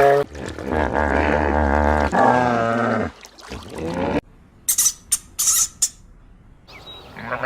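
Animal calls: a long, low, wavering call lasting about three seconds, a shorter call after it, then a few short high-pitched chirps.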